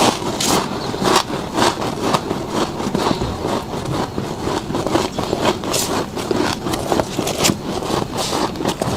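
Freezer frost being chewed, close to the microphone: a run of crisp, irregular crunches, one or two a second.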